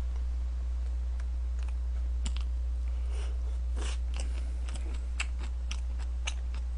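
Close-miked chewing of crunchy kimchi: an uneven scatter of crisp crunches and mouth clicks, over a steady low electrical hum.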